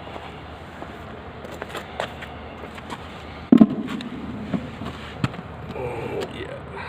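Scattered clicks and knocks of objects and tools being handled, with one loud thud about three and a half seconds in.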